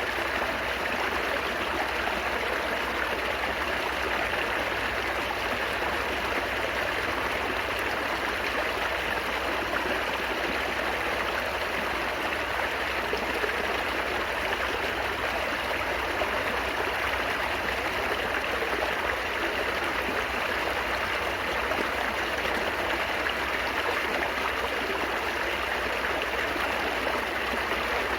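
Shallow stream water babbling and trickling steadily over stones, an even unbroken rush.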